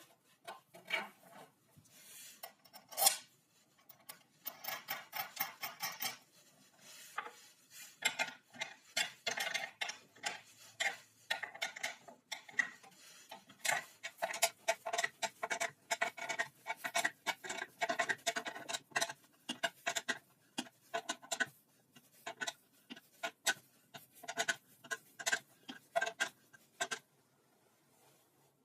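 Irregular clinking, rattling and scraping of hard objects being handled, in quick runs with short pauses, with no power tool running; it stops about a second before the end.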